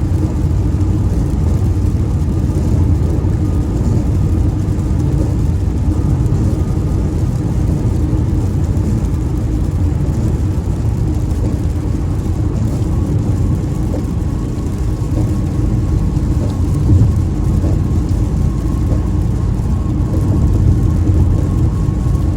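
Steady road and engine noise heard inside a moving car, a continuous low rumble.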